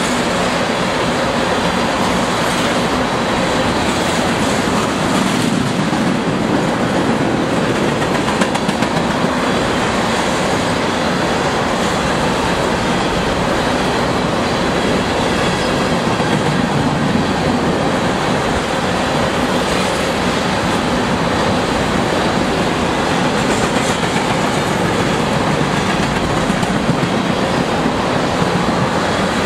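Freight train of tank cars passing close by at speed: loud, steady noise of steel wheels running on the rails.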